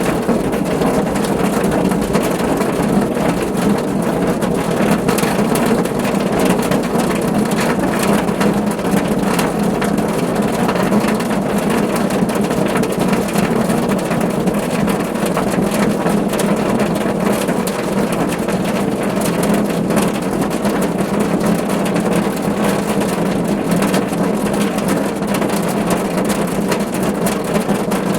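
Steady rain falling on a car roof, a dense even patter of drops with a low hollow undertone.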